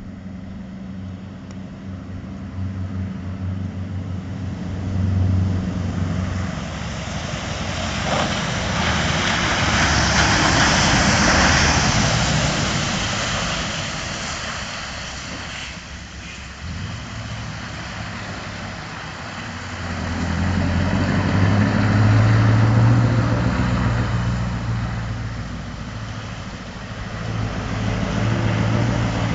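Scania V8 truck engine running on the move, its deep note growing and easing as it pulls. A loud rushing noise swells and fades about ten seconds in.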